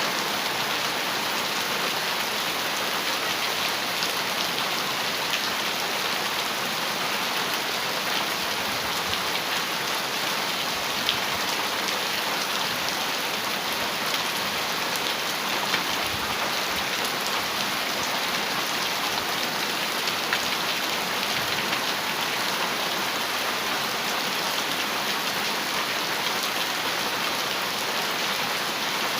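Heavy rain falling steadily on a metal roof: a dense, even patter of drops, with a few single louder hits standing out now and then.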